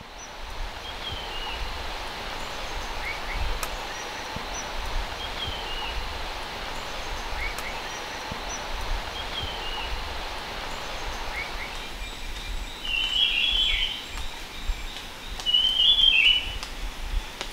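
Birds calling outdoors over a steady hiss: a short falling call repeats about every three and a half seconds, and after about twelve seconds a louder call sounds twice.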